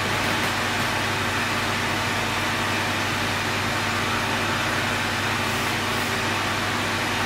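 Steady mechanical noise: an even rushing hiss over a low hum that holds unchanged throughout.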